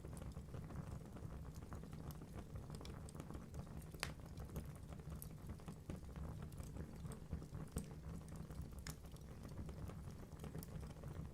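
Wood fire burning in a fireplace: a steady low rush of flames with scattered crackles and pops from the logs. The sharpest pop comes about four seconds in.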